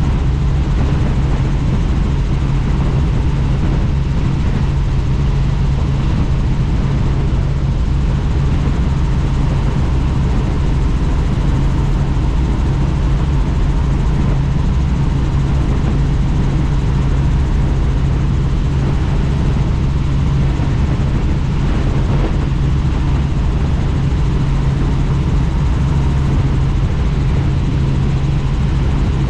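Helicopter in flight heard from on board: steady engine and rotor noise with a strong, unchanging low hum.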